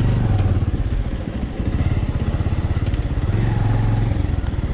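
Motorcycle engine running at low speed with a steady, even beat of exhaust pulses. It eases off briefly about a second in.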